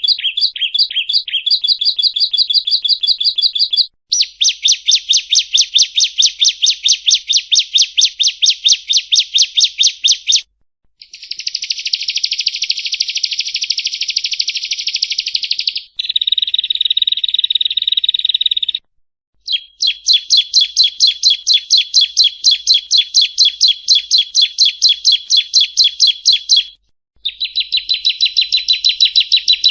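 Yellow-bellied prinia (prenjak rawa) singing: phrases of fast, evenly repeated chirping notes, each lasting a few seconds, with brief silences between them. One phrase about two-thirds through is a shorter, buzzier trill.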